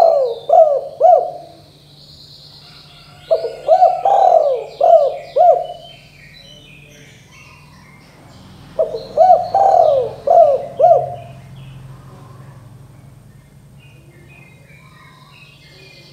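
Spotted dove (tekukur) cooing: phrases of several quick, rhythmic coo notes repeating every four to five seconds. Smaller birds chirp faintly behind it.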